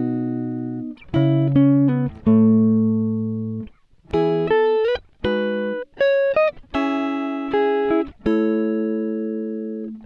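Instrumental background music: plucked guitar chords and notes, each ringing and fading, with a few short slides between notes.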